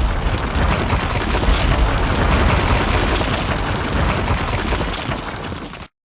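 Intro sound effect of a wall breaking apart: a loud explosion-like crash with heavy low rumble and rubble noise that starts abruptly, fades over about six seconds, then cuts off.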